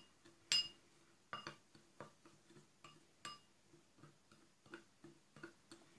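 A spoon clinking lightly against a small dish, stirring dry cocoa powder and gelatin together: a string of faint, irregular clicks, some with a short ring.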